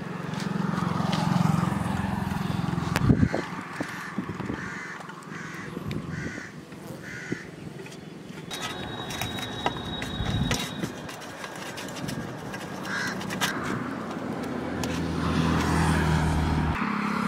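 A bird calling in a quick run of short calls, about two a second, over outdoor ambience, with a sharp knock about three seconds in.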